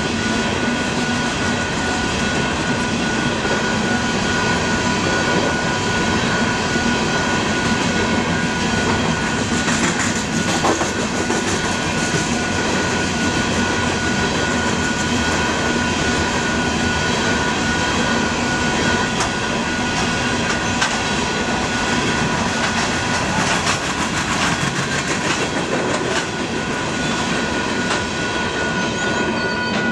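Long coal train of open-top hopper cars rolling past, with steel wheels clacking and clicking over the rail joints. The last cars go by near the end. A steady ringing tone runs underneath and continues after the train has gone: the grade-crossing bell at the lowered gates.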